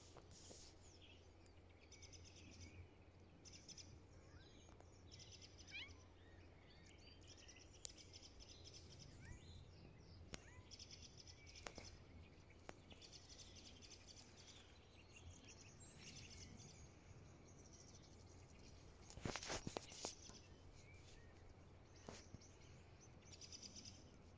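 Faint chirping of small birds, repeating throughout over a quiet background, with a few light clicks and a brief burst of rustling noise about three-quarters of the way through.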